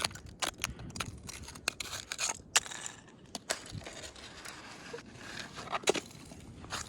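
Footsteps crunching on ice-crusted snow: a run of sharp, irregular crunches and crackles.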